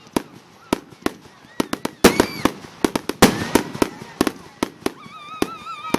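Aerial fireworks bursting in quick succession, a rapid run of sharp bangs with crackling tails, the loudest about two and three seconds in. A high wavering whistle sounds near the end.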